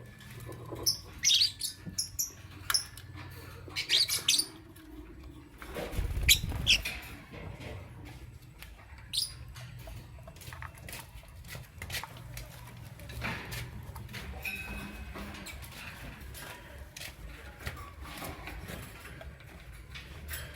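Lovebirds chirping in short, high calls, bunched in the first seven seconds and sparse after, with scattered small clicks and knocks. A loud low thump comes about six seconds in.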